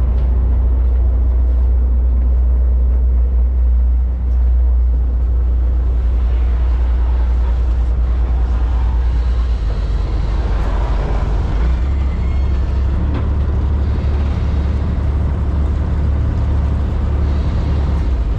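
High-speed passenger boat under way, its engines running with a steady, loud low drone and an even rush of noise over it.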